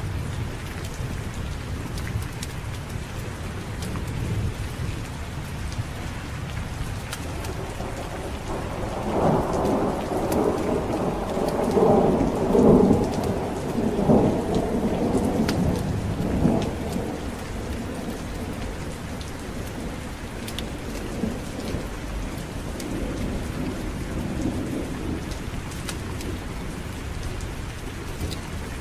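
Steady heavy rain with a long roll of thunder that builds about a third of the way in, is loudest near the middle and then dies away, followed by a fainter rumble later on.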